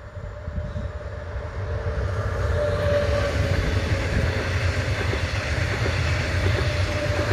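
Electric multiple-unit passenger train passing close by. The rumble and clatter of wheels on the rails builds over the first two seconds or so and then holds, with a steady high hum running over it.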